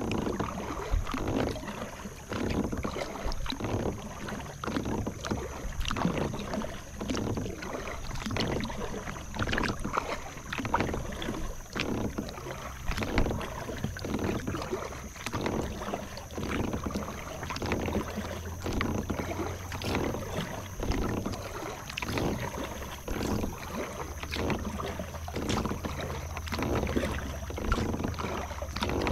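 Kayak paddle strokes dipping into and pulling through calm water, with splashes and drips in a steady rhythm of roughly one stroke a second.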